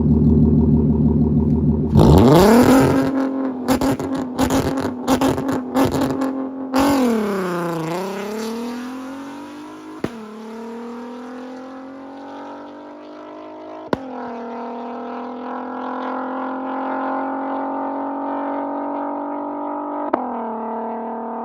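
Straight-piped, catless VW R32's 3.2-litre VR6 engine, very loud: it runs steadily, then about two seconds in revs up hard with a fast string of crackling pops, drops in pitch as the throttle closes, and settles into a lower drone that slowly climbs in pitch.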